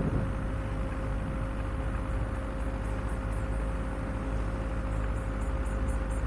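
Off-road vehicle driving slowly on a rough forest track: a steady low engine and drivetrain rumble with a constant whine. From about two seconds in, insects chirp in a high, rapid, even pulse that grows stronger near the end.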